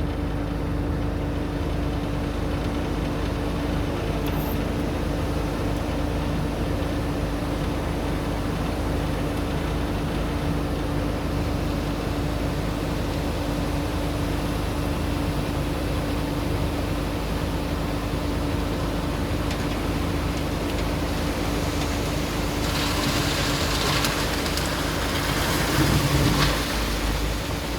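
Heavy construction machine's diesel engine running steadily with a constant hum. Late on, a louder rushing hiss rises for a few seconds over a low rumble, then drops away.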